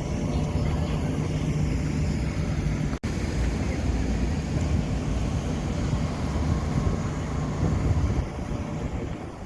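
Steady low rumble of outdoor noise with wind on the microphone, cutting out for an instant about three seconds in.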